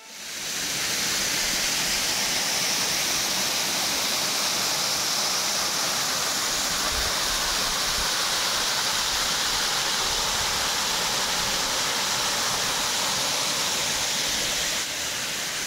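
Slide waterfall: a steady rush of falling water that fades in over the first second and holds evenly throughout.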